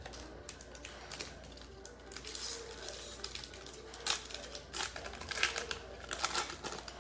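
Trading card pack being opened and its cards handled: irregular crinkling of the wrapper and sharp clicks of cards being flicked, loudest about four seconds in and again near the end.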